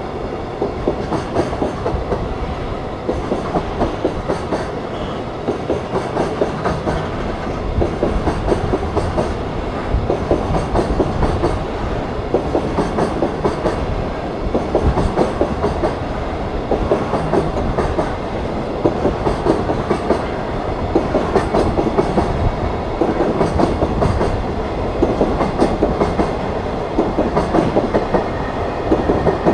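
Container flatcars of a JR Freight express freight train rolling past, their wheels clicking over the rail joints in a steady clickety-clack over a continuous rumble.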